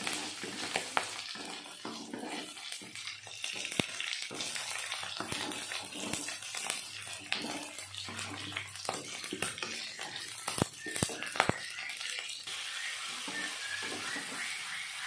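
Whole shrimp frying in hot oil in a nonstick wok, a steady sizzle with scattered sharp pops and clicks, while a spatula stirs and scrapes them around the pan.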